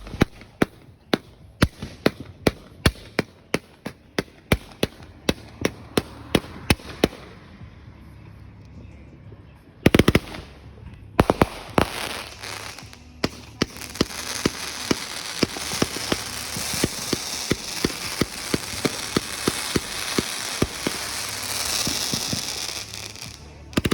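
Firecrackers going off: a run of sharp bangs about three a second, a short lull, then one loud bang followed by a long, dense barrage of crackling pops over a hiss that stops just before the end.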